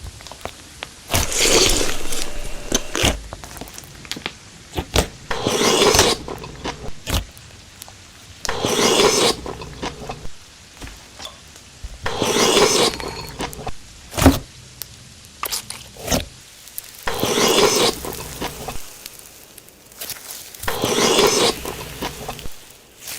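Close-miked mukbang eating sounds: loud crunchy bites and chews come about every three to four seconds, with small mouth and handling clicks between them.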